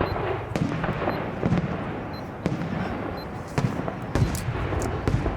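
Aerial fireworks bursting: an irregular string of sharp bangs over a continuous low rumble of further shells.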